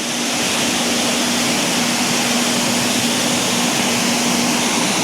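Loud steady rushing noise with a low steady hum under it.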